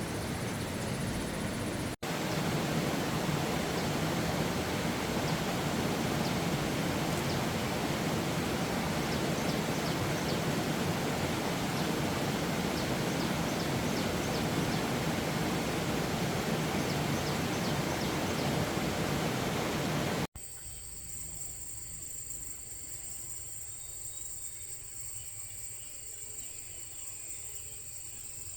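A steady rushing noise, cut off abruptly, then a steady high-pitched insect drone of crickets or cicadas.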